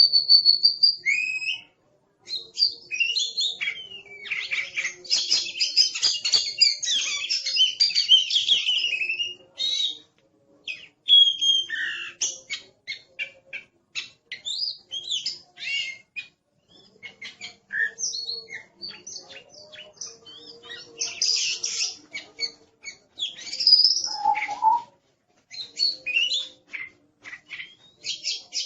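Oriental magpie-robin (kacer) singing a busy, varied song of sliding whistles and rapid chattering notes, broken by short pauses. The densest chattering comes in spells about 5 to 9 seconds in and again around 21 seconds.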